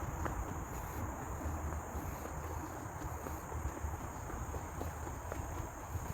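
Steady high-pitched drone of insects in tropical forest, over a low rumble on the microphone.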